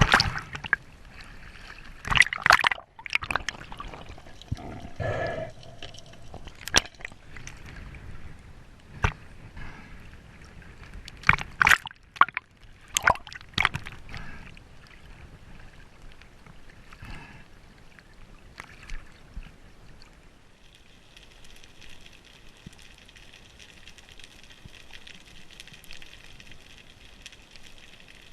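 Water sloshing and gurgling, with irregular sharp knocks and splashes over the first half, settling into a steady hiss about two-thirds of the way in.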